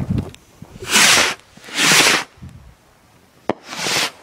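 Large firework rockets going off in a finale: three short rushing bursts, the second about a second after the first and the third nearly two seconds later, with a sharp crack just before the last.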